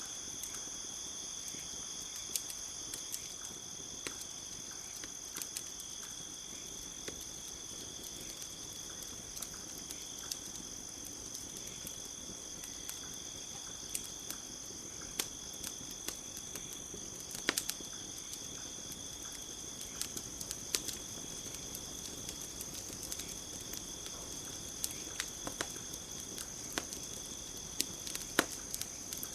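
Campfire crackling, with sharp pops at irregular intervals, over a steady, high-pitched chorus of crickets.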